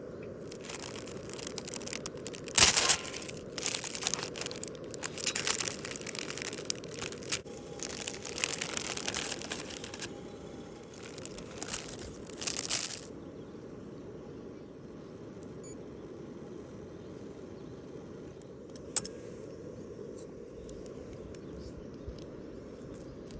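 Crinkling, rustling handling noise in irregular bursts for about twelve seconds, like something being crumpled or torn open, then a single sharp click, over a steady low background noise.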